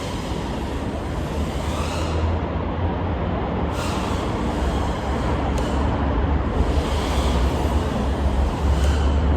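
Small FPV quadcopter's 1405 4800KV brushless motors and 3.5-inch propellers: a loud rushing hiss with low rumble, swelling and easing several times as the throttle is punched and cut through loops and dives.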